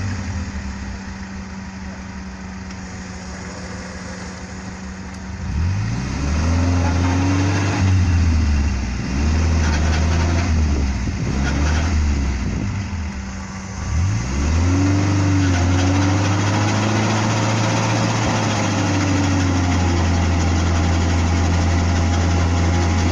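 UAZ off-roader's engine running at a steady low speed, then revved up and down again and again for about ten seconds before settling into a higher steady drone: the vehicle is stuck in mud and the driver is trying to power it out.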